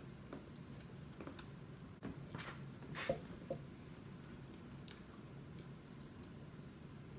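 A person chewing food close to the microphone, with soft wet mouth sounds and small clicks. A louder stretch of chewing comes a little after two seconds in, loudest about three seconds in.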